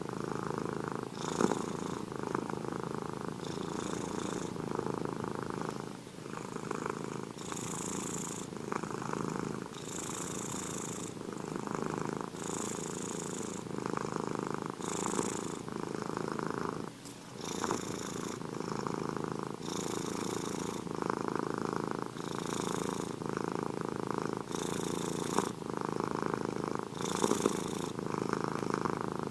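Domestic cat purring steadily, swelling in a regular cycle of about two and a half seconds, with a brief dip a little past halfway.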